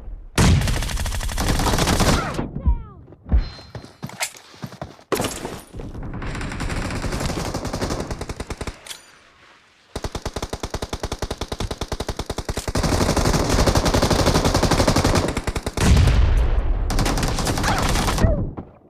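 Video-game automatic gunfire: several bursts of rapid fire, a short lull, then a long run of rapid shots from about ten seconds in that stops near the end.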